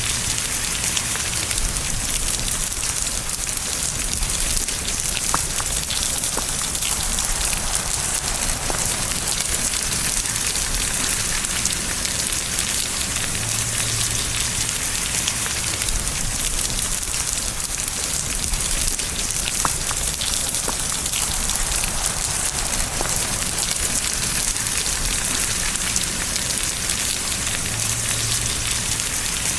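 Steady rain falling on a surface: a dense, even hiss with now and then a single louder drop.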